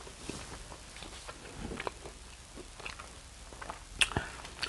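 A person chewing food, with small wet clicks and crackles of the mouth and one sharper click about four seconds in.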